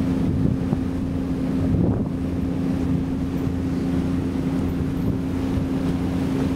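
Tour boat's engine running at a steady drone, with wind rushing over the microphone.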